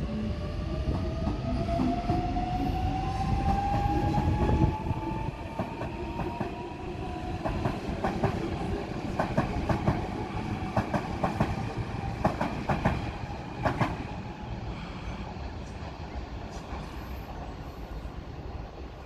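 Double-deck electric suburban train pulling away from a station platform. Its motor whine rises in pitch as it gathers speed, then the wheels give a run of sharp clicks over the track, and the sound fades as the train recedes.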